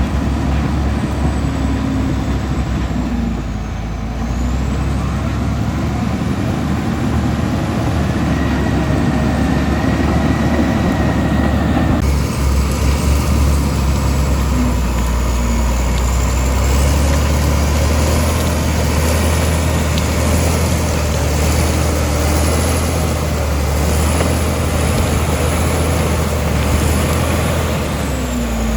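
Komatsu D65E bulldozer's diesel engine running steadily under load, with short high squeaks repeating through the second half.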